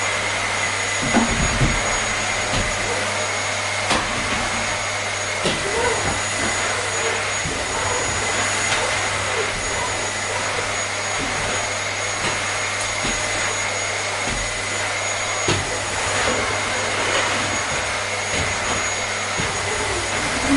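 Vacuum cleaner running steadily: an even motor-and-airflow roar with a constant high whine and a low hum. A few brief clicks and light knocks are scattered through it.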